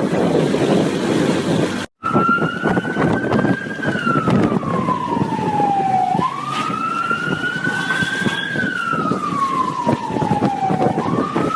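Police siren wailing, its pitch rising and falling slowly twice, over a rushing engine and wind noise. The siren comes in about two seconds in, after a brief cut; before it there is only the rushing noise.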